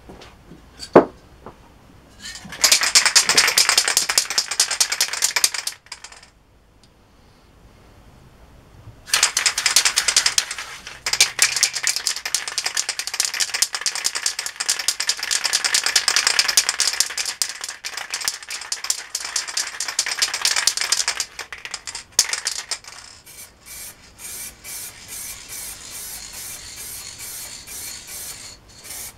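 Aerosol spray paint can hissing in two long bursts, then in a run of short quick bursts near the end, with a sharp click about a second in.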